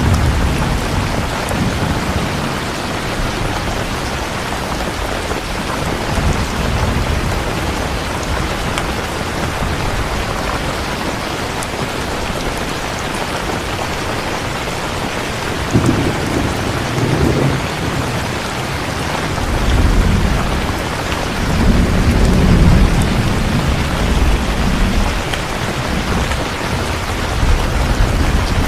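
Steady heavy rain with rolling thunder, the low rumbles swelling about halfway through and again near the end.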